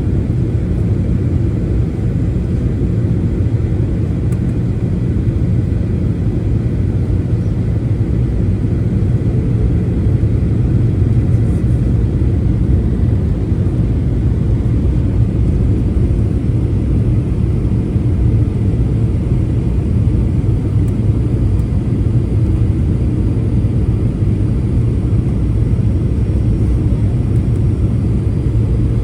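Aircraft noise: a loud, steady low rumble that neither rises nor falls.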